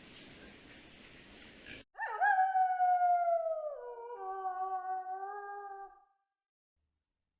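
An animal's long howling call lasting about four seconds, starting about two seconds in and sliding down in pitch, with a step lower about halfway through, before it cuts off. A faint hiss comes before it.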